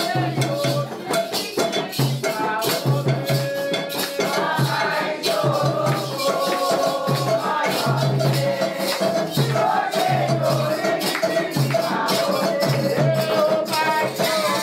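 Afro-Brazilian Candomblé ritual music: singing over a steady rhythm of hand-drum beats and a shaker rattling.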